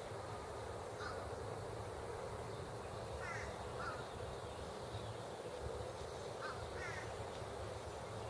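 Outdoor birds calling: a handful of short calls, some in pairs, spaced a second or more apart over a steady low background noise.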